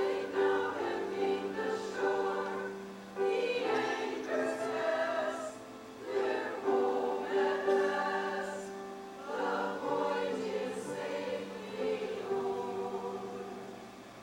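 A choir singing a slow piece in held chords over a steady low sustained note.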